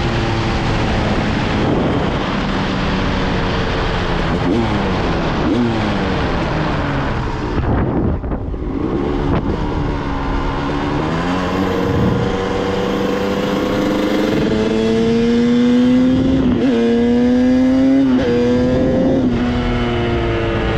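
Dirt bike engines being ridden, revving up and dropping back again and again as the gears change, most often in the last several seconds.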